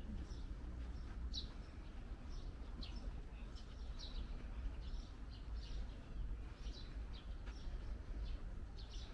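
Songbirds chirping, short high notes about one or two a second, over a low steady rumble.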